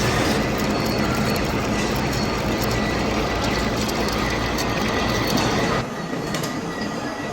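Workshop machinery running with a steady, dense mechanical clatter. The sound changes abruptly and gets quieter about six seconds in.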